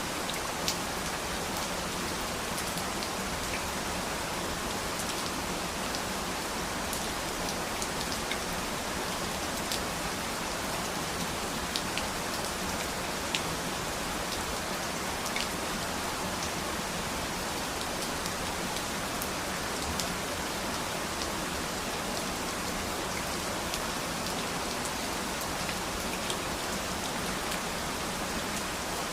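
Steady rain falling, a continuous hiss with scattered individual drops ticking.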